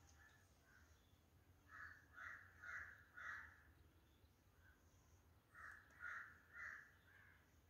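A bird calling faintly in two bouts of four short, harsh caw-like notes, about half a second apart.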